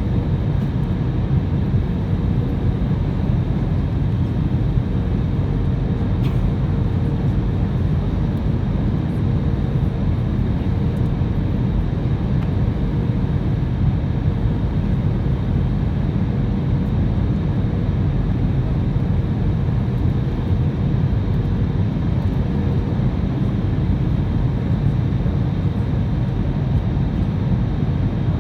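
Steady cabin noise inside an Airbus A320 airliner: a loud, even rumble of engines and airflow with a faint steady hum above it.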